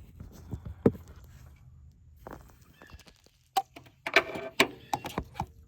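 Handling noise: scattered clicks and knocks, a sharp knock about a second in and a quick cluster of clicks and light clinks near the end.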